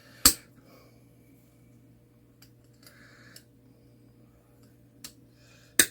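Sharp clicks and taps of handling as a new, coiled clock mainspring is worked at to get it apart: two loud clicks, one just after the start and one near the end, with a few faint taps between, over a steady low hum.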